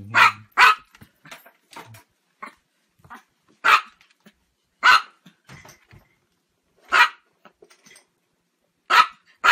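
A Chihuahua barking in short, sharp, high yaps, one every second or two, with a quick pair at the start and again near the end.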